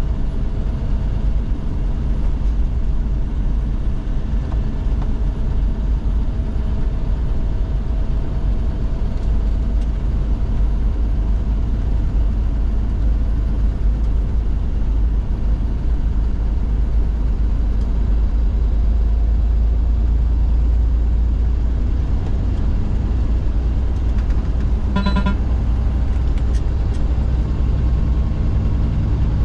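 Truck driving, heard from inside the cab: a steady low engine and road rumble. About 25 seconds in, a short pitched tone sounds once.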